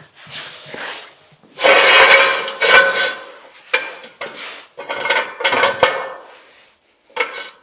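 Metal tools or parts clattering and clanking in several irregular bursts, with a light metallic ring, the loudest burst about two seconds in.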